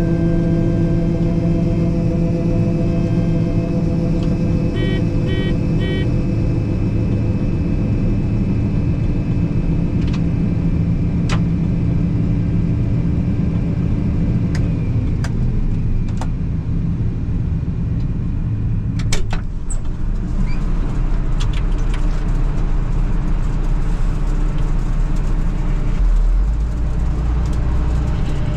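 Combine engine running steadily, heard from inside the cab, with three short beeps about five seconds in. About halfway through the engine note drops, and a deeper, rougher rumble follows with a few sharp clicks.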